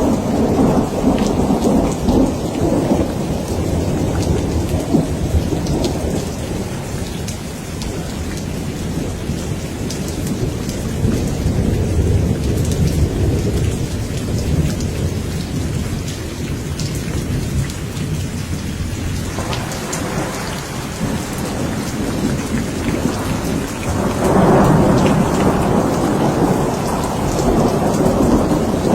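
Steady heavy rain with rolling thunder. The rumbles swell and fade, with one building about two-thirds of the way through and the loudest near the end.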